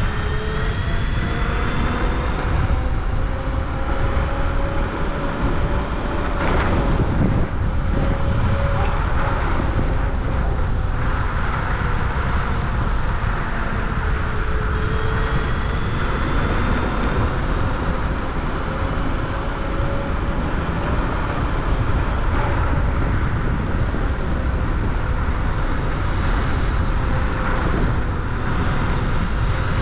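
Motor whine of the ridden vehicle, slowly rising and falling in pitch as the speed changes, over steady wind rumble on the microphone.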